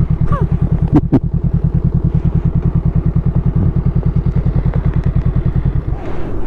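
Honda Rebel 500's parallel-twin engine idling through a new aftermarket exhaust, a steady fast beat of exhaust pulses, with two short sharp clicks about a second in. The engine note stops about six seconds in.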